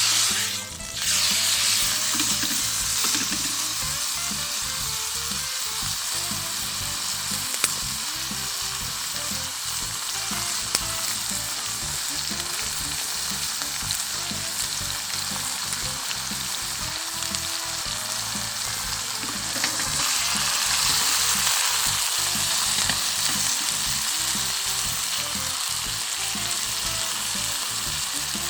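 Steak sizzling in a hot frying pan over a campfire, a dense steady frying hiss that swells louder about two-thirds of the way through.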